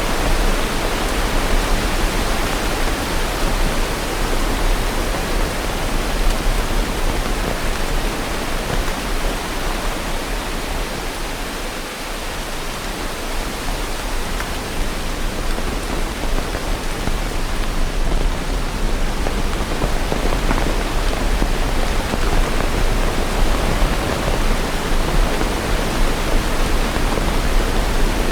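Steady, dense rain: an even hiss with no single drops or thunder standing out, easing slightly in loudness about twelve seconds in before building back.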